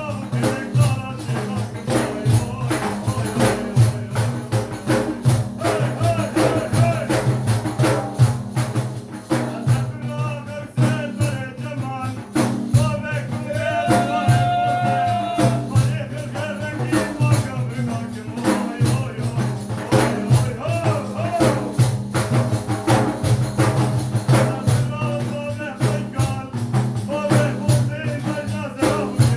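Sufi madih, a praise song: a voice singing over fast, steady hand percussion of frame drums and jingles, with one long held note about halfway through.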